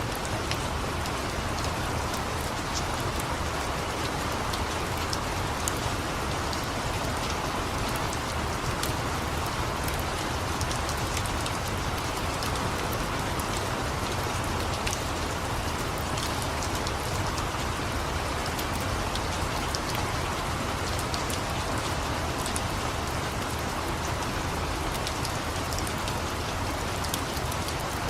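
Steady rain falling, an even hiss with scattered small ticks throughout.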